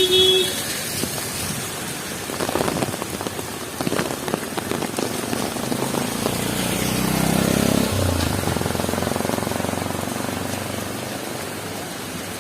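Heavy rain falling steadily on the street, with a vehicle engine passing close by, loudest about seven to eight seconds in. A horn cuts off right at the start.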